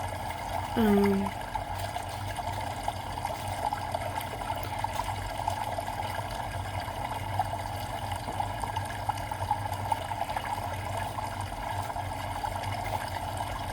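A recorded bamboo water fountain track: water trickling steadily, played as background ambience. About a second in, a person's voice makes a short hum.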